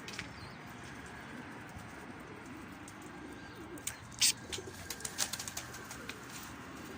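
Domestic pigeons cooing, with a couple of sharp clicks about four and five seconds in.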